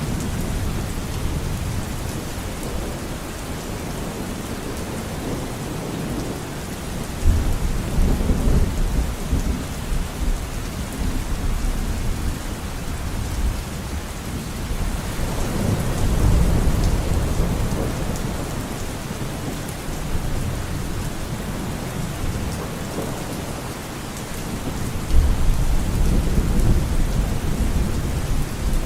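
Steady rain falling in a forest, with deep rolls of distant thunder swelling up three times.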